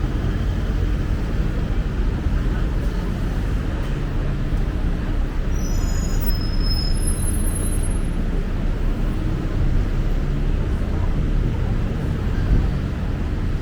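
Steady road-traffic noise from passing cars and buses, a continuous low rumble with no single event standing out.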